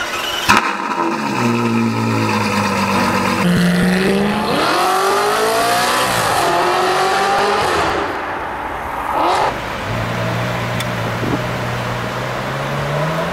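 Supercar engine accelerating: a steady low note that climbs sharply in pitch as the revs rise, climbs again briefly, then settles back to a steady low note. A sharp click comes just after the start.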